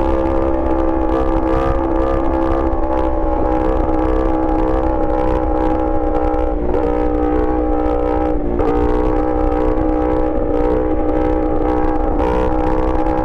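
Yamaha R1 inline-four engine running loud at a steady held engine speed. The note dips briefly and comes straight back three times in the second half.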